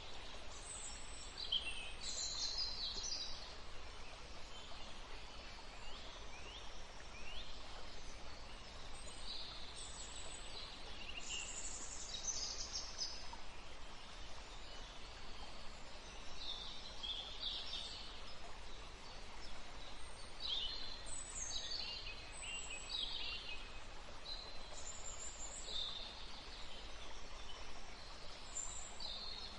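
Several small songbirds chirping and trilling in short high phrases, over and over, above a steady low background hiss.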